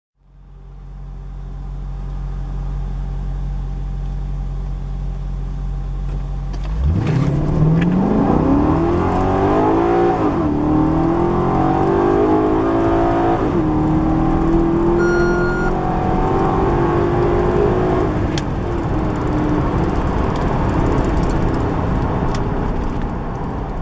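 Maserati GranCabrio engine idling steadily, then at about seven seconds opening up to full throttle for a standing-start acceleration. The revs climb with two brief dips at upshifts, hold high, and ease off over the last few seconds.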